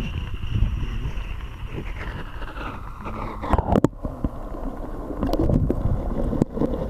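Gusty wind buffeting the microphone in a low, uneven rumble over moving stream water, with a few sharp knocks about three and a half seconds in.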